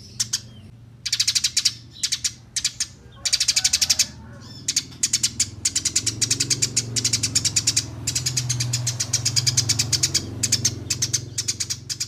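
Eurasian tree sparrow chirping in quick rattling series of sharp, high chirps, bout after bout with short pauses between, as used in a bird-training recording. A steady low hum runs underneath.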